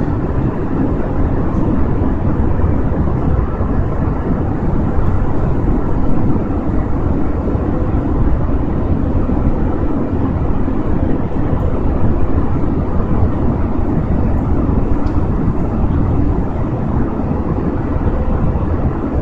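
Steady cabin noise of a jet airliner in flight: engine and airflow noise, deepest and strongest in the low range, with a faint steady hum on top.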